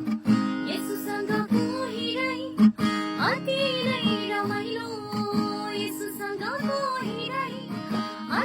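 Acoustic guitar strumming chords under a voice singing the melody of a Christian worship song.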